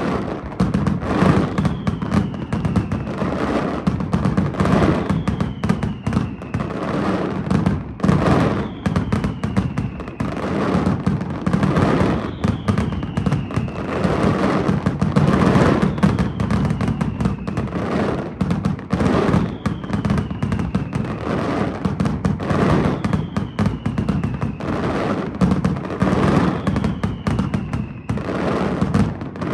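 A fireworks display barrage: a dense, continuous run of bangs and crackling reports. Over it, music with a short falling tone repeats about every two seconds.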